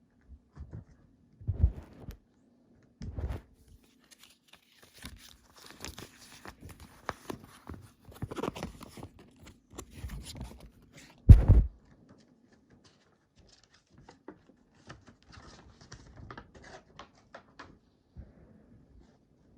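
Hands handling a CD and its packaging: rustling and tearing of the wrapping, with scattered knocks of the case. The loudest is a sharp thump about 11 seconds in, over a faint steady hum.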